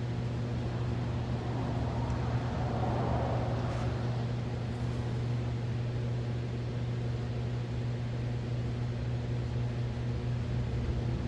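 Steady low electrical hum from a mains-powered machine running nearby, with a brief swell of hissing noise a couple of seconds in.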